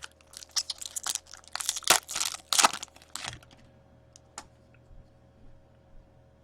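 A hockey card pack's foil wrapper crinkling and tearing as it is ripped open, in a quick irregular run of crackles, followed by a couple of light clicks.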